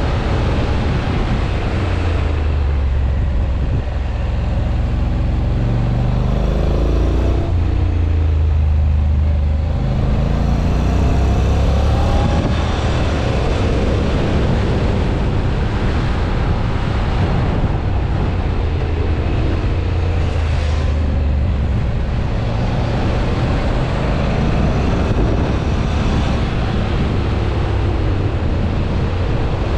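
Honda NC750X DCT's parallel-twin engine being ridden hard, its note climbing and falling again and again as it accelerates, shifts and slows, over a steady rush of wind noise.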